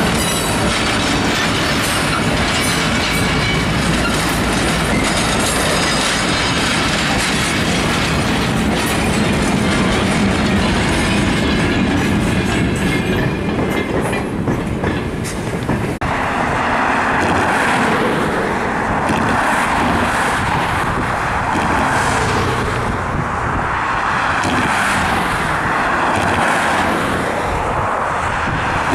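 Passenger coaches of a train rolling past over a road crossing, wheels clacking over the rail joints. After a cut about sixteen seconds in, a different steady rushing noise takes over.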